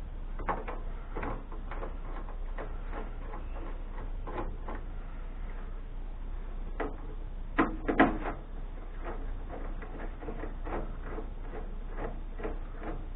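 Screwdriver backing out the screws that hold a computer motherboard in its metal case: a steady run of small clicks and scrapes, with a few louder knocks about eight seconds in.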